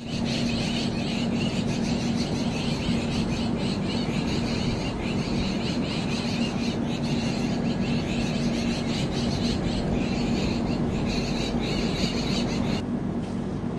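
Running noise of a moving passenger train heard from aboard: a steady rumble of wheels on rail with a steady low hum and a high, rattling hiss. The hiss thins out near the end.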